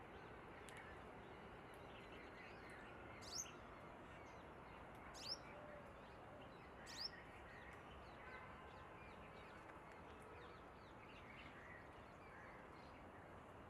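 Faint outdoor background hiss with small birds chirping and twittering. Three short, high calls that sweep downward stand out, about two seconds apart, in the first half.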